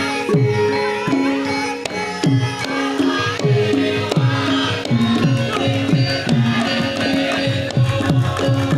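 Javanese gamelan music accompanying a topeng and lengger dance: low hand-drum strokes, each sliding down in pitch, about two a second, over ringing metallophone tones.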